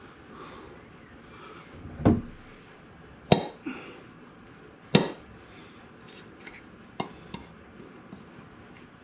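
Hard knocks and clinks of tools or wood being handled on a bench. Three loud sharp knocks come a second or two apart, then a few lighter clicks.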